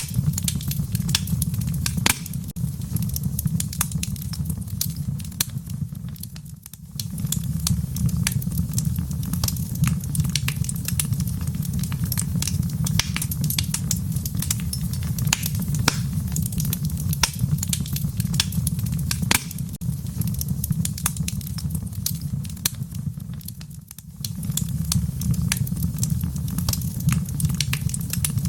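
Wood fire crackling in a fireplace: a steady low rumble of the flames under dense, irregular pops and snaps. The sound dips briefly twice, about 6 seconds in and again near 24 seconds.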